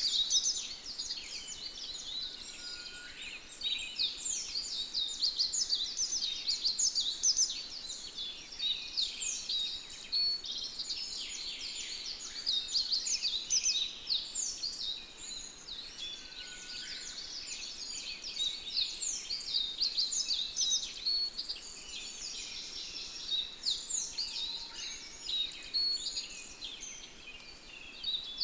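A dense chorus of small birds chirping and twittering, many short quick calls overlapping without a break.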